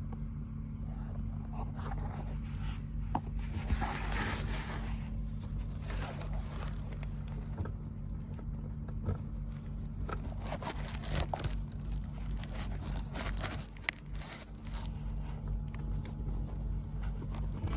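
A Teflon-taped threaded fitting being screwed in and tightened by hand and tool: irregular scraping and sharp clicks, over a steady low hum.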